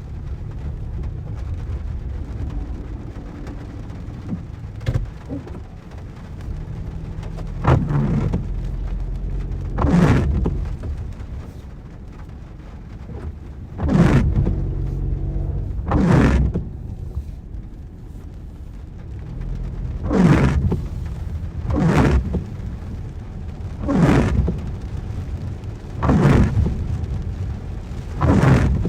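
Car driving in rain, heard from inside, with a steady low road and engine rumble and rain on the car. From about a quarter of the way in, windscreen wipers swish across the glass roughly every two seconds, with a couple of short pauses.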